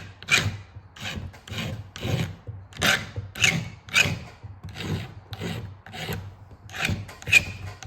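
Hand file rasping across the steel rakers (depth gauges) of a chainsaw chain in short, even strokes, about two a second, with a brief pause a little after six seconds.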